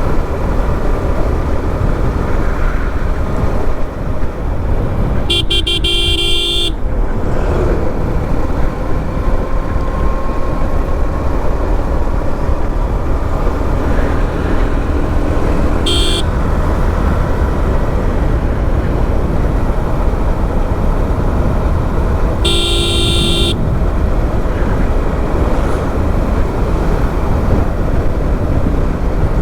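Steady wind rush and engine rumble of a motorcycle on the road, with a vehicle horn honking three times: a long blast about five seconds in, a short toot around the middle, and another blast later on.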